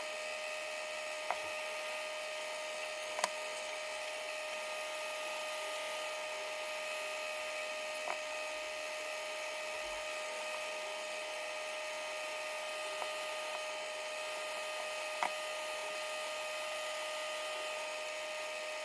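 A steady, even machine whine with a hiss, with a few faint taps and clicks of small-parts work scattered through it.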